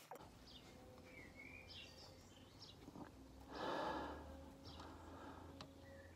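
Faint background with a low steady hum and a few short, gliding bird chirps, and one short breathy rush, an exhale, about three and a half seconds in.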